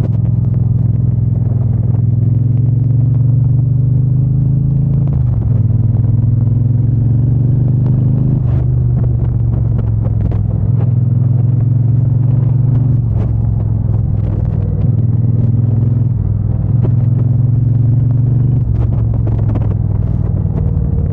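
Triumph Bonneville T120 parallel-twin engine and exhaust running under way. It is a steady, loud note whose pitch drops and climbs several times as the throttle and gears change, with occasional short ticks.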